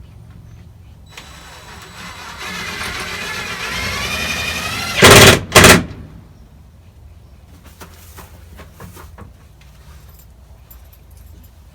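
Power drill driving a screw with a flat washer into a wooden 1x4: the motor whines for a few seconds, rising in pitch, then gives two short, very loud bursts about halfway through.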